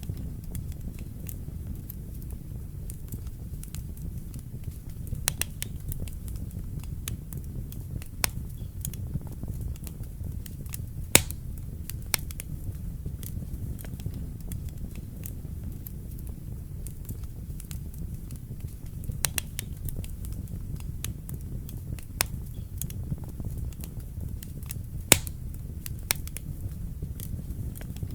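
Wood fire burning in a fireplace: a steady low rumble of flames with irregular sharp crackles and pops, two louder pops standing out about 11 and 25 seconds in.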